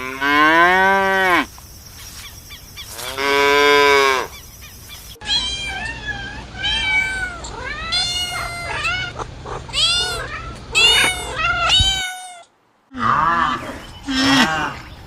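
Animal calls from several edited clips. First come two long, drawn-out calls, then many short calls in quick succession, each rising and falling in pitch. A brief silence follows, then more short calls.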